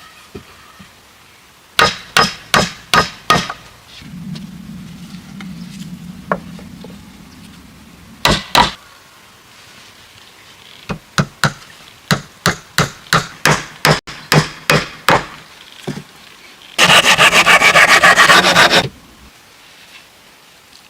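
Repeated hard blows on wood, hammering, in several runs of strikes: about three a second in the longer run, ending in a fast flurry of strikes near the end.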